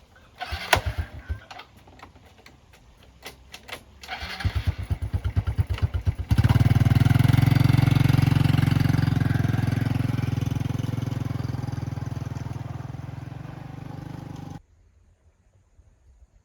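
A few knocks, then the starter cranking the box truck's diesel engine in rapid even pulses for about two seconds, followed suddenly by a loud steady engine running, which cuts off abruptly near the end.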